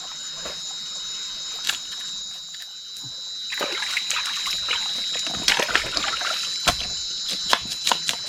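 Night insects droning steadily at a high pitch, with irregular sharp clicks and crackles over a wet, trickling hiss that swells about three and a half seconds in.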